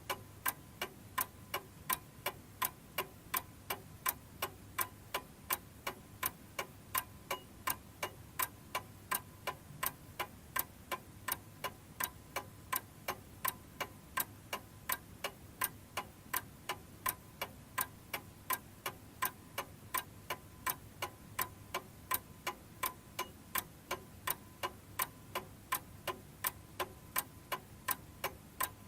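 Domestic chiming clock ticking steadily, a quick, even run of about two to three sharp ticks a second.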